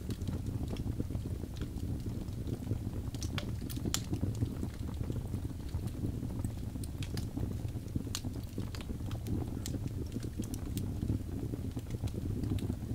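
Birchwood log fire burning steadily with a low rumble, and sharp irregular pops and crackles every fraction of a second to a couple of seconds.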